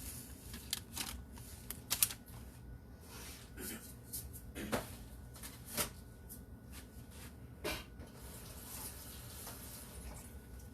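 Scattered light clicks, taps and short rustles of kitchen utensils and packaging being handled while butter and cream cheese go into a mixing bowl, with the sharpest click about two seconds in.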